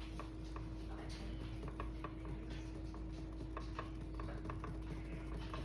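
Small irregular clicks and taps from painting supplies being handled, over a faint steady hum.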